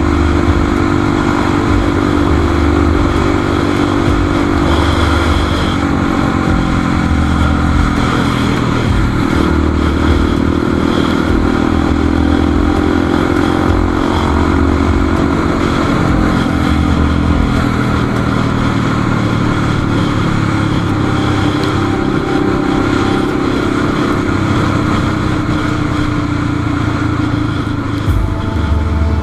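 Motorcycle engine running steadily while riding, its pitch drifting slowly up and down with throttle and speed.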